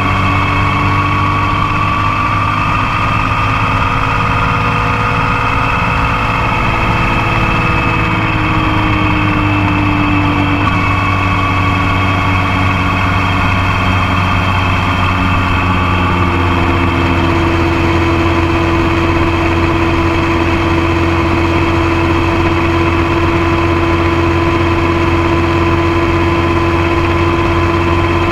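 Motorcycle engine running under way, picked up close by a camera on the passenger foot peg. Its pitch drifts up and down during the first part and then holds steady from about two-thirds of the way in.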